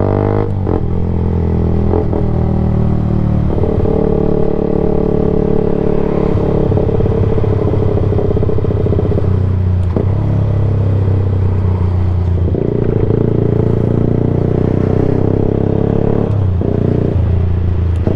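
Yamaha YZF-R sport bike running loud through an unbaffled Black Widow slip-on can on a decat exhaust, held at a steady engine note while riding. The note breaks and shifts briefly about half a second in and twice near the end, as the throttle or gear changes.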